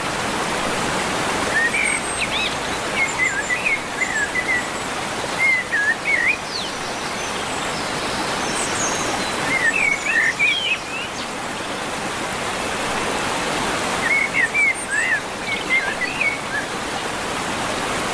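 Steady rushing of a waterfall, with a bird singing short runs of quick chirps about every four seconds.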